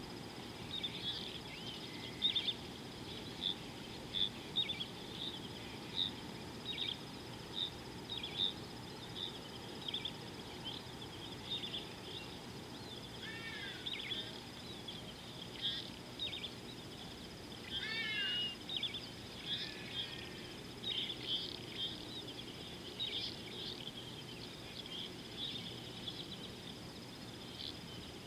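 Birds calling: a steady stream of short, high chirps, with two quick runs of lower, falling notes about halfway through, over a faint high steady tone and low rural background noise.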